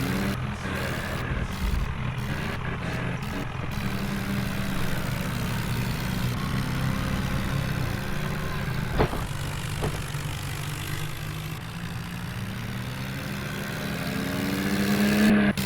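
Tractor engine running steadily, then revving up near the end. There is a sharp click about nine seconds in.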